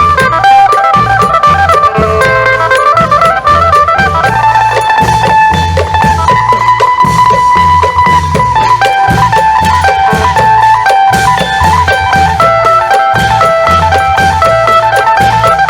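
Isan klong yao band music: a phin, the Isan plucked lute, plays a stepping melody over a steady beat of long drums.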